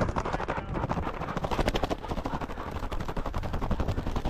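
A hunting dog panting hard and fast close to the microphone, about eight to ten quick breaths a second. This is heavy panting from a hot, tired dog that needs water and a rest.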